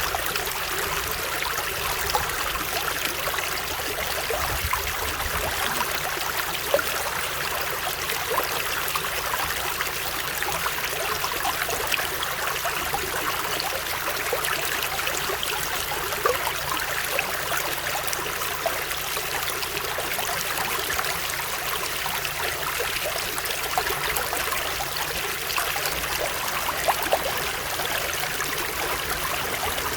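Running water, like a small stream, flowing steadily with many small trickles and splashes.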